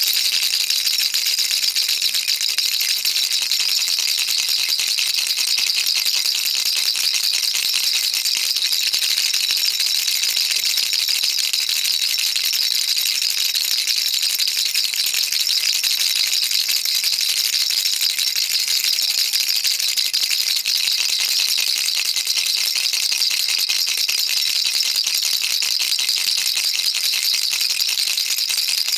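Baby rattle shaken without a break: a dense, even, high-pitched stream of tiny clicking beads or pellets, with no pauses.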